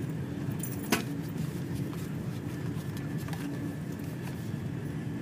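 Steady low rumble of a Eurostar high-speed train running at speed, heard inside the passenger carriage. There is one sharp click about a second in and a few faint ticks after it.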